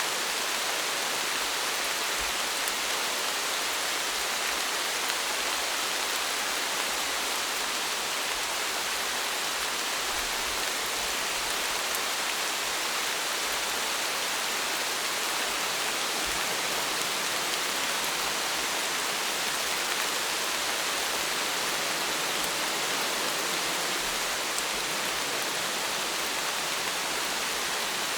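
Steady rain falling, an even hiss of many drops with faint scattered ticks and no change in strength.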